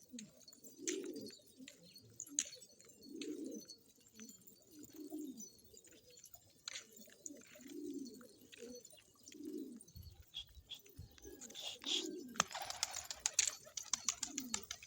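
Domestic pigeons cooing over and over in low, rolling calls, with scattered light clicks and scratches. There is a short burst of rustling near the end.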